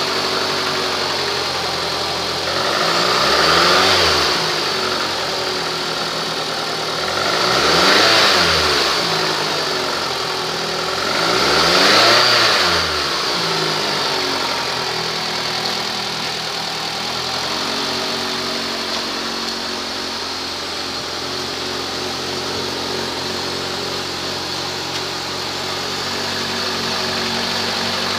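2015 Mitsubishi Outlander Sport's inline-four MIVEC engine, a high-mileage unit at about 181,800 miles, revved up and back down three times about four seconds apart, then settling to a steady idle for the rest of the time.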